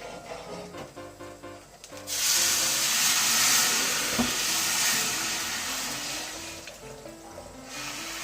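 Something sizzling on a hot square iron frying pan: the sizzle starts suddenly about two seconds in, loud at first, then dies away near the end, with a single tap about halfway. Music plays underneath.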